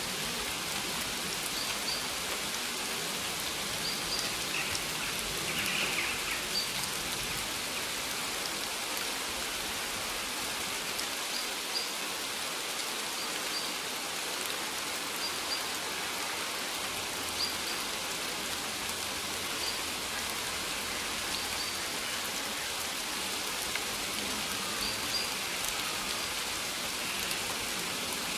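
Steady rain falling on maize plants, an even dense hiss of drops on the leaves. A faint high chirp repeats every second or two.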